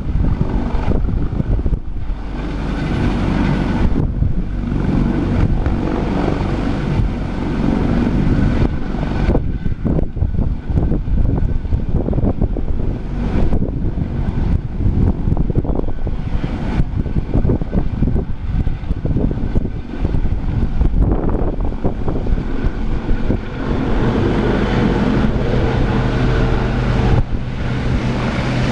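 AS365 N3 Dauphin helicopter running close by: twin turbine engines and main rotor, with a rapid fluttering rumble throughout. A steadier hum comes in near the end.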